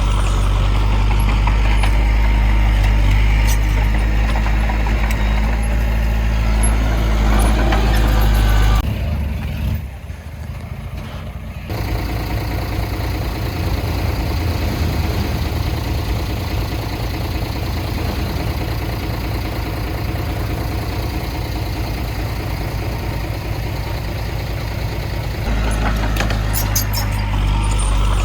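Heavy diesel machinery engines running steadily, with a low drone; the sound changes abruptly about nine seconds in, drops briefly, and shifts again near the end.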